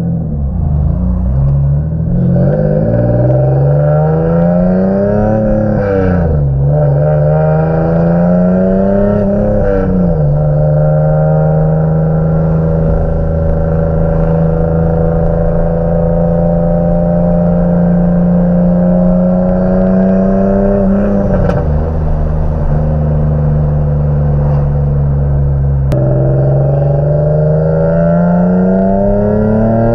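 Single-turbo Infiniti G37's 3.7-litre V6 accelerating through two gear changes, its note rising and then dropping at each shift. It then cruises at a steady pitch, eases off about two-thirds of the way through, and climbs again near the end.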